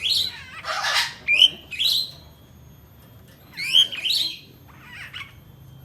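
A rambatan (nuthatch) calling: short, sharp chirps that sweep down in pitch, one at the start and then pairs about a second and a half in and again near four seconds. A harsh rasping burst comes near one second.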